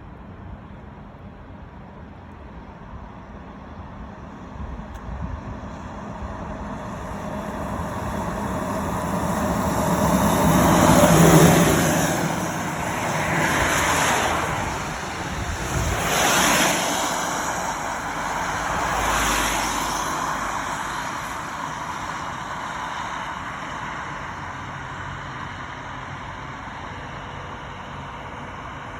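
Several vehicles passing one after another on a nearby road, each a swelling and fading rush of tyre and engine noise. The loudest passes about eleven seconds in, and steady traffic noise continues between them.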